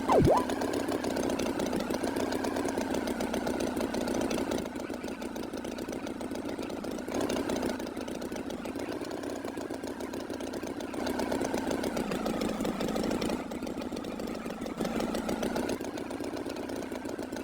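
An engine running steadily with a fast, even pulse, stepping a little louder and softer a few times, with a sharp click just after the start.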